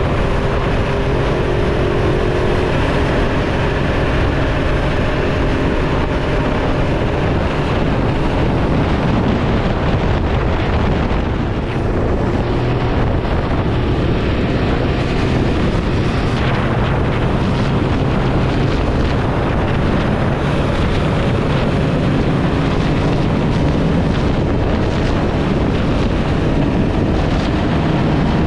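Ducati Hypermotard motorcycle engine running under way, its pitch drifting as the throttle changes, with wind noise on the microphone.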